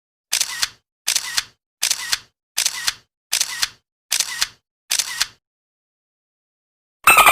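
Camera shutter sound effect: seven DSLR-style shutter clicks, each a quick double click-clack, about one every three-quarters of a second. Near the end a different effect starts, a fast buzzing pulse with whistling tones that fall in pitch.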